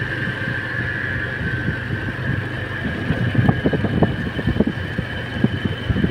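Motorcycle running with a steady low engine hum while riding, with irregular knocks and rattles from about halfway in.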